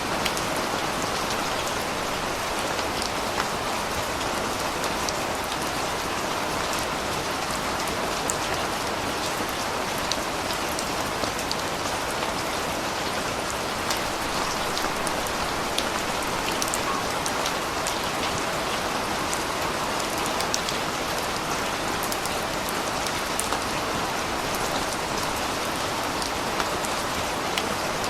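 Steady rain falling, with a constant hiss and many small sharp drop ticks on surfaces.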